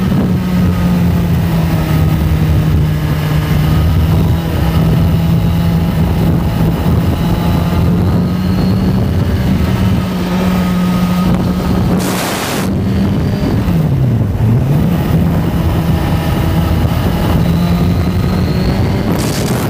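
Suzuki sport bike's engine running at a steady cruising pace, heard on board over wind noise. About fourteen seconds in the engine note drops and climbs back as the throttle is rolled off and on again. Brief loud rushes of wind noise about twelve seconds in and again near the end.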